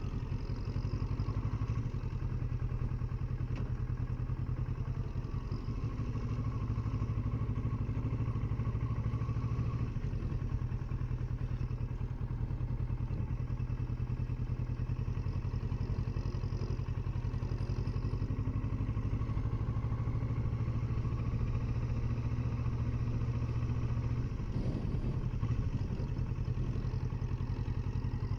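2020 Kawasaki Versys 650 parallel-twin engine running steadily at low riding speed, with an even, unchanging engine note.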